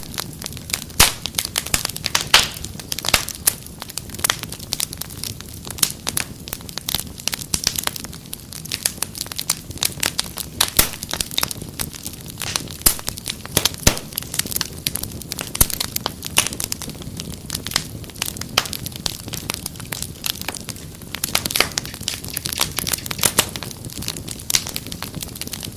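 Wood fire crackling: dense, irregular sharp pops and snaps over a low steady rush of flame.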